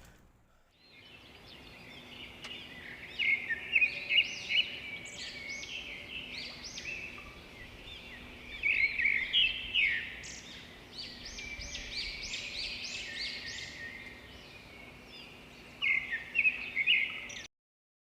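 Small birds chirping and singing, with three louder runs of rapid chirps. The sound cuts off suddenly near the end.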